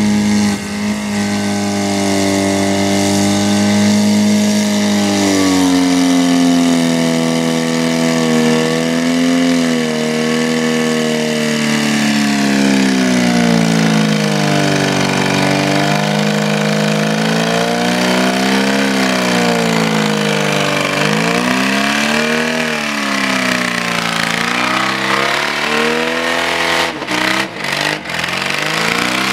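Car engine run hard at high revs, its note climbing and falling again and again as the throttle is worked. A few sudden brief breaks in the sound come near the end.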